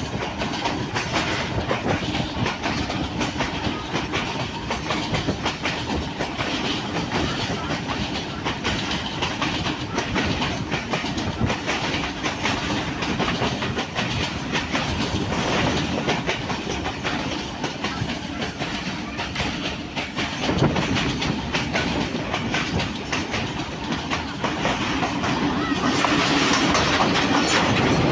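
Passenger train running at speed, its wheels clattering steadily over the rails as it crosses the Victoria Bridge over the Jhelum River at Haranpur. The noise grows louder near the end.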